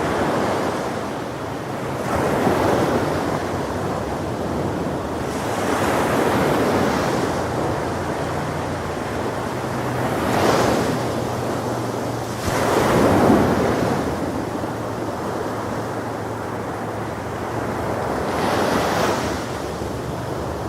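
Ocean waves breaking and washing on a shore, the surf swelling and receding about five times, with wind buffeting the microphone.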